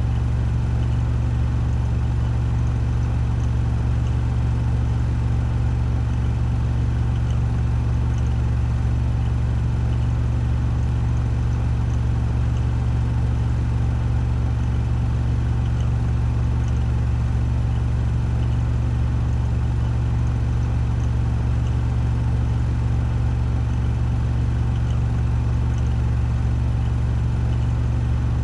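Washing machine on a 1400 rpm spin cycle, the drum spinning at full speed: a steady, unchanging low drone.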